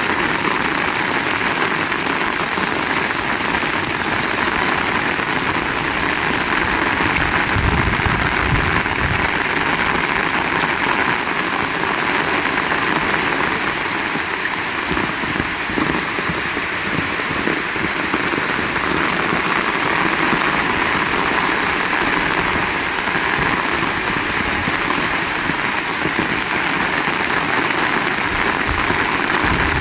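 Heavy rain falling steadily, a dense even hiss, with a few brief low rumbles about eight and sixteen seconds in.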